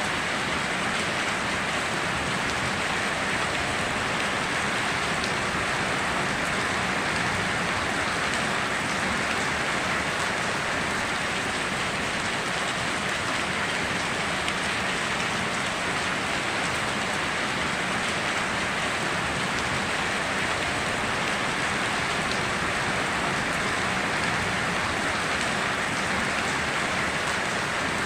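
Steady heavy rainfall, an even hiss of many drops with fine patter on surfaces and no breaks or thunder claps.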